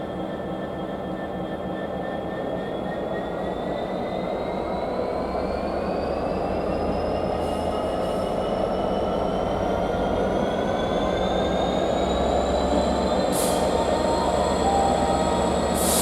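Diesel locomotive on the move. Its whine rises slowly in pitch and the rumble grows louder as the train gathers speed. There are a couple of brief sharp clicks near the end.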